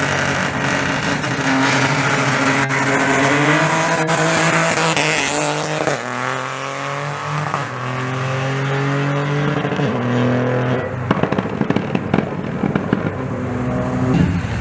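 Rally car accelerating hard away from a stage start, its engine rising in pitch through the gears with a shift about six seconds in. Near the end the engine note turns to rough crackling.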